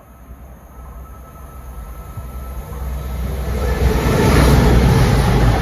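Class 220 Voyager diesel-electric multiple unit approaching and passing through the station without stopping, its engine rumble and wheel noise growing steadily louder over the first four seconds and staying loud to the end.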